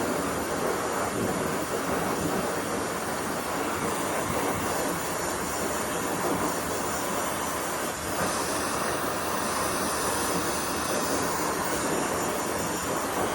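Hair dryer running steadily, a continuous blowing rush with a brief dip in level about eight seconds in.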